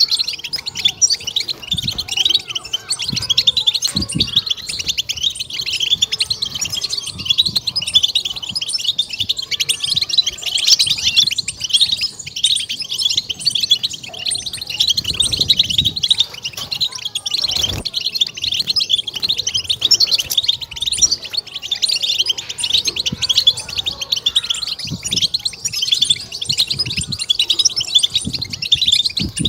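European goldfinch twittering in a fast, continuous chatter of high chirps: the excited 'batbata' song used to stimulate and fire up goldfinches.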